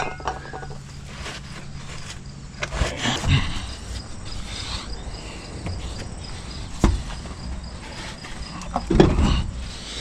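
Insects chirping steadily in the background with a fast, even pulse, while work noises come and go: rustling about three seconds in and again near the end, and one sharp clack near seven seconds.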